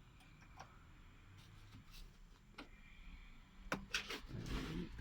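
Faint scattered clicks, with a few sharper clicks about four seconds in, then a short rustling knock of plastic cab fittings being handled.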